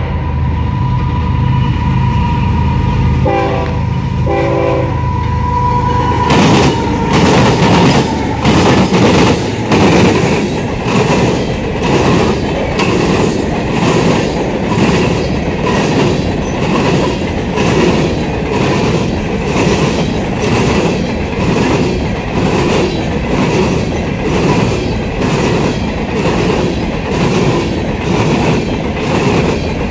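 A train horn sounds for the first few seconds with a brief break. Then a string of empty coal hopper cars rolls past close by, the wheels clacking in a steady rhythm over a constant rumble.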